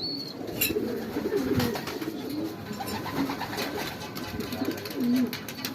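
Racing pigeons cooing, many low coos overlapping one another, with scattered light clicks.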